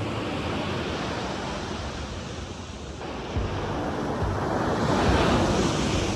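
Pacific Ocean surf washing in on the beach, with wind rumbling on the microphone. A wave swells louder about halfway through and is at its loudest near the end.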